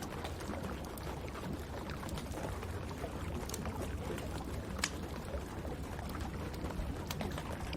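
Wood fire crackling in a fireplace, with a few sharp pops over a steady hiss of rain.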